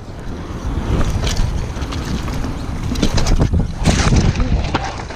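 Wind rushing over the microphone and the rumble of a mountain bike rolling fast over wet ground, with knocks and rattles from the bike. The sharpest knock comes about four seconds in.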